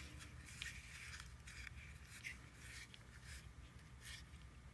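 Faint scattered rustling and light scraping, as of the headphone packaging being handled.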